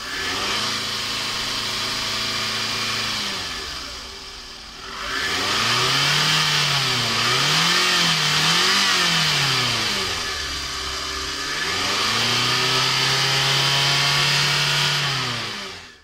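Toyota 2AZ-FE 2.4-litre four-cylinder engine running with the hood open. It is held at a raised speed, drops back to idle, is revved up and down several times, settles, then is held up again before dropping near the end.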